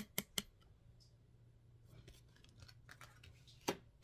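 Cards being handled on a table: three short sharp clicks in the first half second, faint light ticking, and another click near the end.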